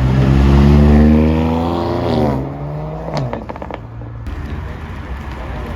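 A car engine accelerating hard, its pitch rising for about two seconds before dropping as the throttle closes. A quick run of sharp cracks follows about three seconds in, then the engine runs on more quietly.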